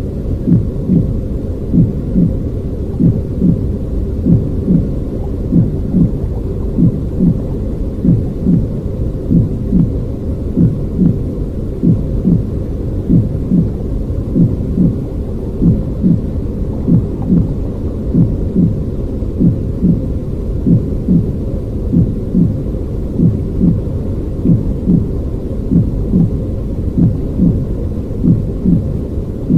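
Low, muffled rumbling noise with a steady heartbeat-like thumping running through it, a regular pulse of soft low thumps.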